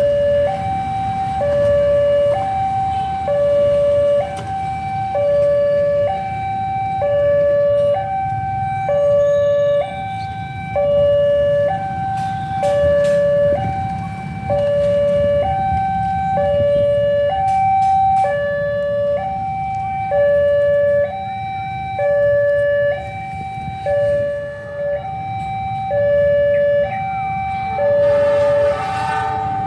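Railway level-crossing warning alarm sounding a steady hi-lo two-tone, the notes alternating about once a second: the signal that a train is approaching. A steady low rumble runs beneath it.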